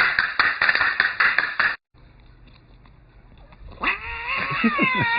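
A rapid run of sharp, scratchy knocks for nearly two seconds, then a cut. From about four seconds in comes a domestic cat's long, wavering meow.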